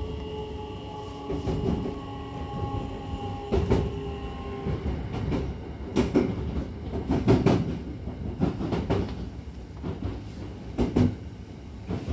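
Hankyu train heard from inside the car while running: a motor whine that falls slightly in pitch and fades about halfway through, then irregular knocks and thumps of the wheels over rail joints.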